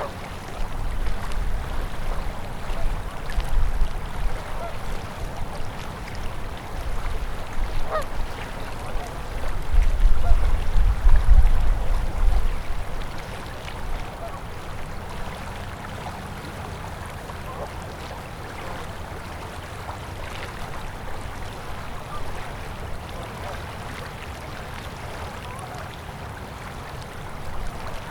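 Winter river water flowing steadily, with a low rumble that comes and goes through the first half, loudest about ten to twelve seconds in. A few short, faint calls are scattered over the water sound.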